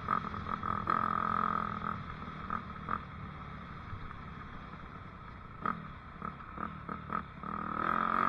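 Dirt bike engine running under a rider's throttle, surging and easing off in uneven bursts, quieter through the middle, then held at higher revs near the end.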